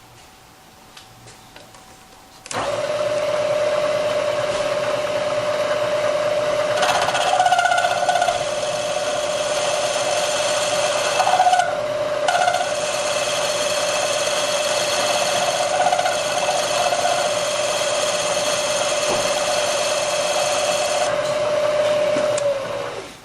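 Machine tool spindle running as it cuts the lip off the sleeves fitted in a Porsche 911 mechanical fuel injection throttle body. It starts suddenly, holds a steady whine for about twenty seconds, and winds down near the end.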